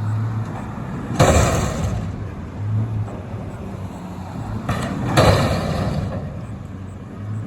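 Front-load garbage truck emptying a dumpster: two loud crashes about four seconds apart as the container is banged at the top of the lift and its load falls into the hopper, over the truck's diesel engine running.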